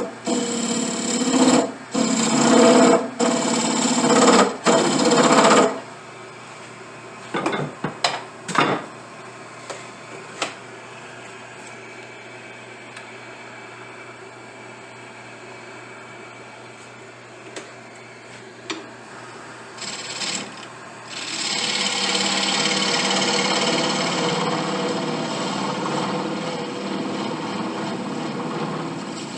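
A power tool working briar wood, run in several short bursts that stop about six seconds in. A few clicks and knocks follow, and about eight seconds before the end the tool runs steadily again with a rasping hiss of wood being cut or sanded.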